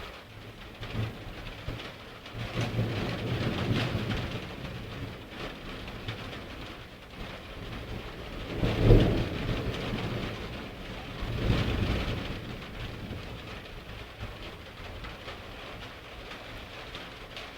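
Thunderstorm: rain falling steadily while thunder rolls several times. There is a long rumble a few seconds in, a sharper, louder clap about nine seconds in, and another rumble around twelve seconds in.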